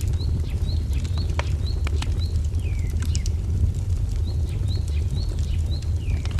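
Wood fire crackling over a steady low rumble, with sharp pops scattered throughout. A bird repeats a short high chirp about twice a second in two runs, one early and one in the second half, with a few downward-slurred notes in between.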